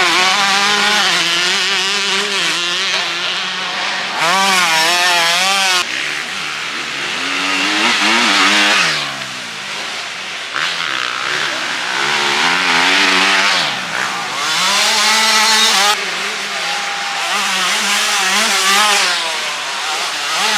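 Motocross bikes' engines revving hard, the pitch rising and falling every second or so through gear changes and throttle. The sound jumps abruptly several times where shots are cut together.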